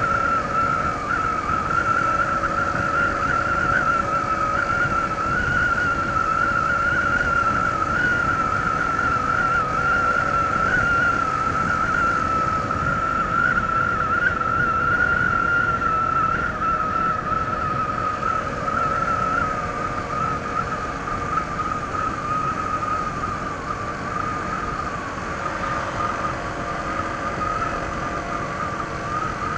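Honda ADV 160 scooter's single-cylinder engine on its stock exhaust, running at a steady cruise, with a steady high whine over a rushing wind-and-road noise. It eases slightly near the end.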